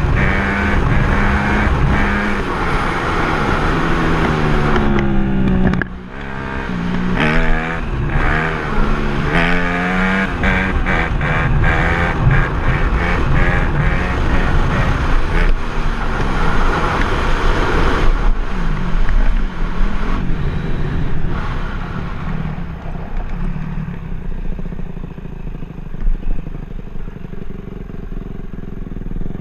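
Dirt bike engine running and revving, its pitch rising and falling again and again. The engine eases off and runs quieter over the last several seconds.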